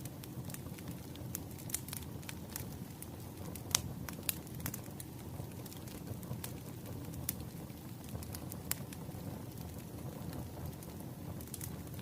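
Wood fire burning, with a steady low rumble and irregular sharp crackles and pops, the loudest about four seconds in.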